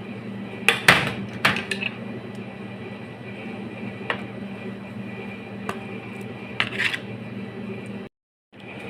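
Kitchenware clattering: a quick run of sharp clinks about a second in, then single clinks and a short clatter a few seconds later, over a steady low hum.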